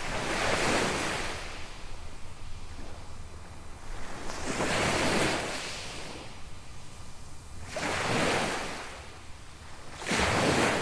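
Small waves breaking on a sand beach, four surges that swell and wash out roughly every three seconds, over a steady low rumble.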